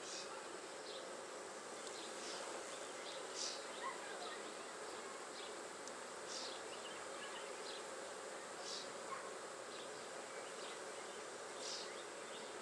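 Honey bees buzzing around an open hive, an even hum with brief higher-pitched whines now and then.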